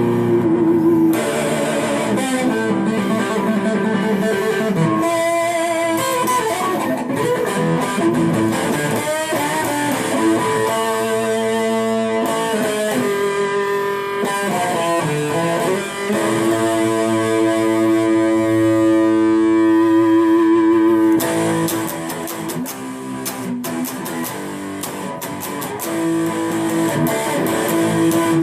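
Electric guitar played through effects: a run of sustained and sliding notes, with one long held note that breaks off sharply about three quarters of the way through, after which the playing goes on more quietly.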